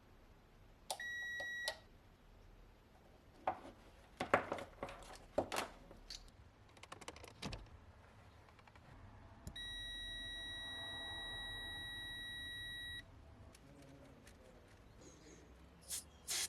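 An electronic beep at one steady pitch: a short beep about a second in, then a long unbroken beep of about three and a half seconds. Between the beeps come a handful of sharp clicks and knocks.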